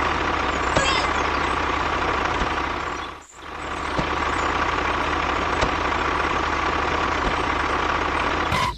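Homemade mini tractor running with a steady engine-like drone and a constant whine. The sound dips sharply and builds back up about three seconds in.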